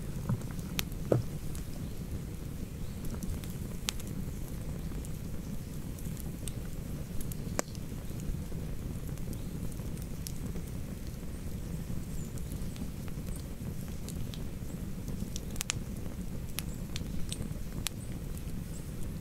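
Wood campfire burning: a steady low rumble with irregular sharp crackles and snaps, the loudest about a second in.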